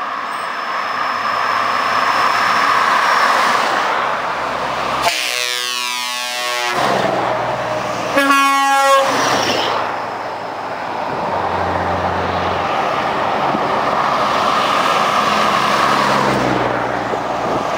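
Convoy trucks approaching and passing, with diesel engine and tyre noise, and air horns sounded twice: a long blast about five seconds in and a shorter one about three seconds later. The engine rumble grows as the trucks draw level.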